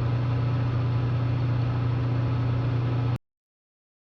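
Bridgeport milling machine running with a steady hum, cutting off abruptly about three seconds in.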